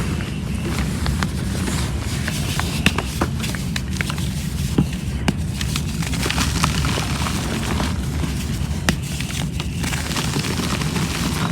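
Damp and dry cement chunks crumbling, with scattered sharp cracks and crackles over a steady low rumble.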